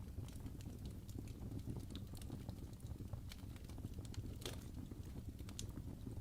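Wood fire crackling in a fireplace: a steady low rumble of flames with irregular sharp pops, the loudest about four and a half seconds in.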